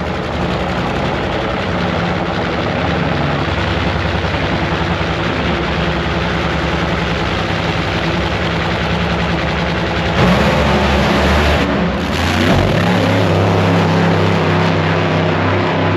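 Supercharged nitromethane Funny Car V8 engines running loud at the drag strip, a dense crackling rumble of firing pulses, with a brief change in the sound about ten seconds in.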